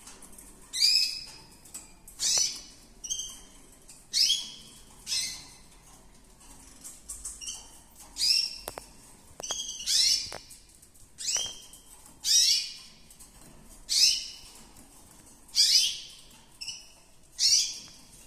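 Gloster canary calling: short, bright chirps that fall in pitch, repeated about every second and a half.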